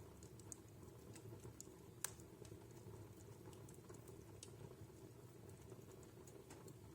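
Faint crackling of a wood fire in a home fireplace: scattered small sharp crackles over a low steady hum, with one louder pop about two seconds in.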